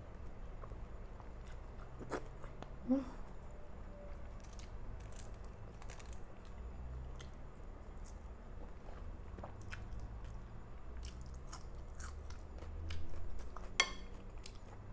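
A person chewing food close to the microphone, with wet mouth sounds and many small scattered clicks and crunches.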